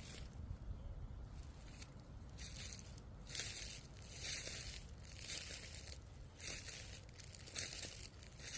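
Footsteps crunching on dry ground cover, a step roughly every second, some louder than others, over a low rumble.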